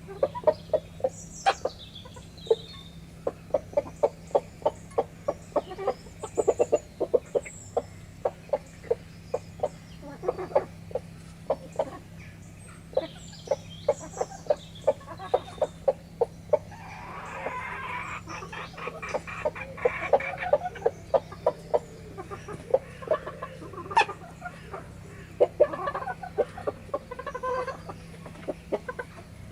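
Backyard chickens pecking at feed, with many quick sharp taps, some in rapid runs, among soft clucks. A louder stretch of hen calling comes about seventeen seconds in and lasts several seconds.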